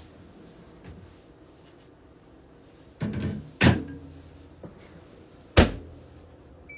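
Countertop dishwasher's door being handled: a short rattle about three seconds in, then two sharp knocks as the door closes and latches, the second near the end.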